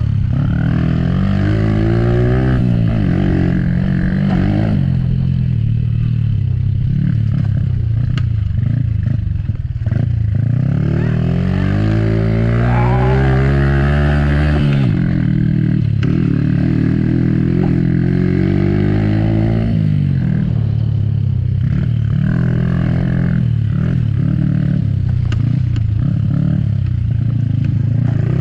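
Motocross motorcycle engines revving, their pitch climbing and dropping again and again as the throttle opens and shuts. The highest climb comes about halfway through and cuts off suddenly.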